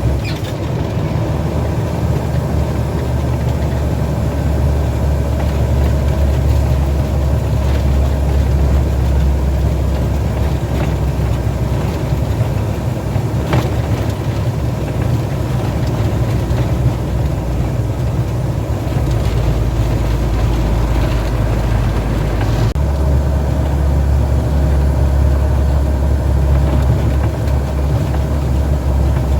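Heavy truck's engine and road noise while driving, a steady low drone; the engine note shifts for a few seconds about two-thirds of the way through.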